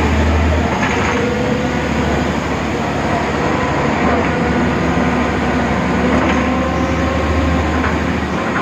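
BredaMenarini Avancity Plus city bus with its Deutz diesel engine running: a steady low drone over road and body noise, with a few rattles and knocks.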